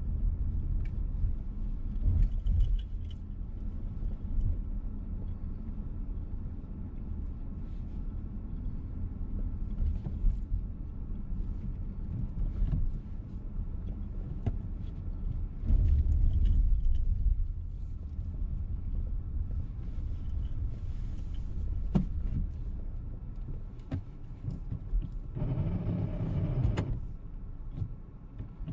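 Engine and road rumble of a VW T-Roc petrol car heard from inside the cabin while driving, with a louder stretch about halfway through and a short pitched sound near the end.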